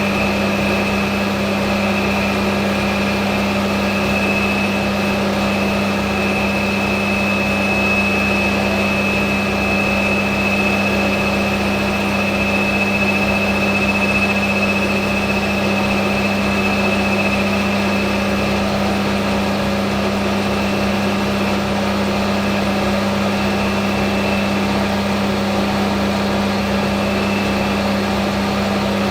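Hafco AL960B metal lathe running steadily while turning a part, with a constant motor hum and a thin high whine that fades out about two-thirds of the way through and returns near the end.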